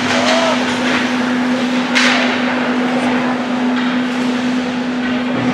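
Ice hockey arena noise during a youth game: a steady low hum under a broad wash of rink and crowd noise, with a sharp knock about two seconds in and fainter knocks around it, typical of sticks and puck striking.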